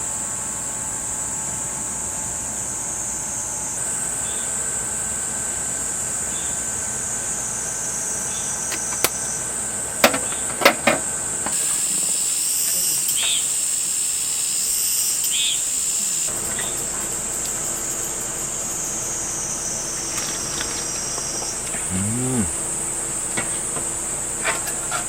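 Insects chirring in a steady, high-pitched drone, with a few sharp clicks about ten seconds in.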